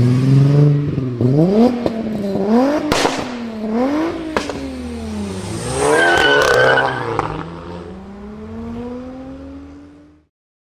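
A sports car's engine revving up and down several times in quick succession, with a few sharp exhaust pops, then one long rising rev as the car pulls away, fading out near the end.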